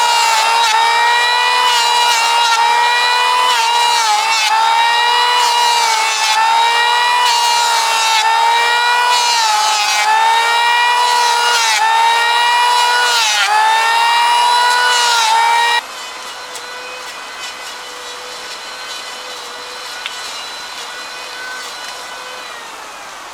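Power tool cutting wood: a motor running at a steady high pitch that dips briefly under load about every two seconds. About sixteen seconds in it drops off sharply, and a faint tone at the same pitch fades away after it.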